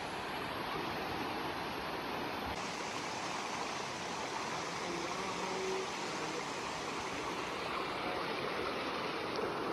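Flowing stream water, a steady rushing wash with no breaks.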